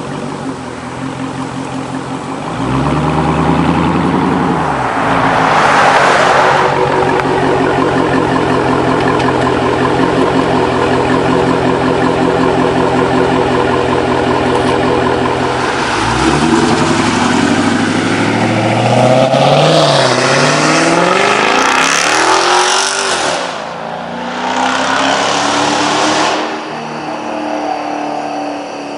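Exhaust of a Dodge Charger Scat Pack's 392 HEMI V8, running through Dynomax mini race bullet mufflers fitted in place of the mid mufflers with the stock resonators kept. The engine runs steadily with a brief rise in revs about three seconds in, then climbs and falls in revs several times in the second half before it quietens.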